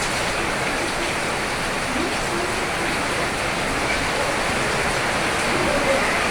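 Steady rain falling, a continuous even hiss of drops with no breaks.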